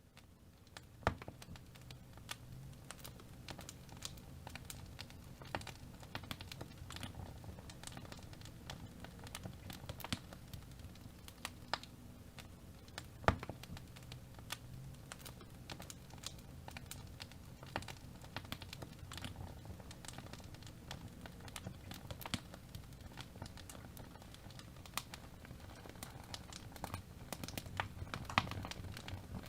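Wood fire in a fireplace crackling: irregular sharp pops and snaps over a low steady background of the burning fire, with the loudest pops about a second in and near the middle.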